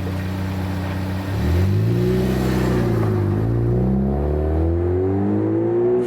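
Ford Focus ST's 2.0-litre turbocharged four-cylinder idling through a COBB cat-back exhaust, then revved: the pitch rises a little over a second in, drops back near the middle, and climbs again before the sound cuts off.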